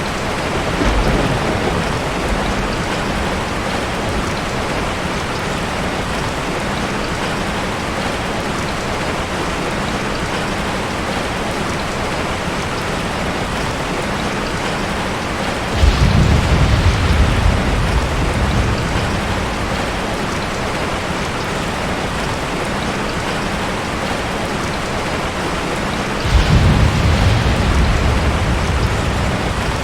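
Steady rain, with two low rolls of thunder, one about halfway through and one near the end, each rumbling for a few seconds.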